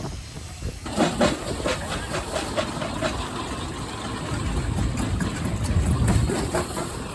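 Vintage engine machinery running: a steady low rumble with a fast, irregular clatter of clicks that starts about a second in.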